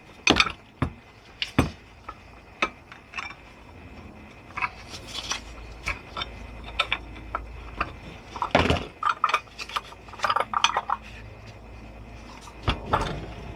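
Screwdriver levering and knocking at the joint of a Mobylette AV7 engine's crankcase halves: irregular metallic clinks, knocks and scrapes as the heated case is slowly prised apart.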